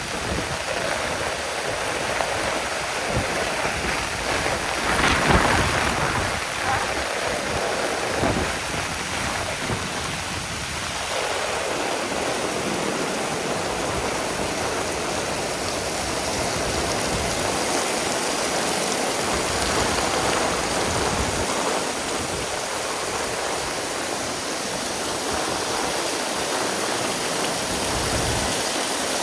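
Heavy rain pouring steadily, a dense even hiss. A low rumble runs under it for roughly the first ten seconds, swelling about five seconds in, then fades away.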